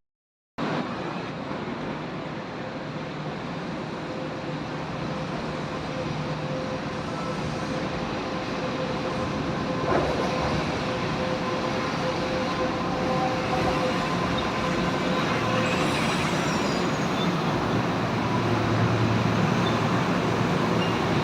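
Kintetsu train running at a station platform: a steady rumble of wheels and running gear with a faint hum, slowly growing louder.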